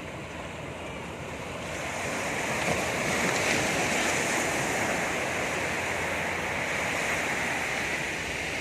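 Sea waves breaking and washing on a beach: a rushing wash that swells about two seconds in and slowly eases off near the end.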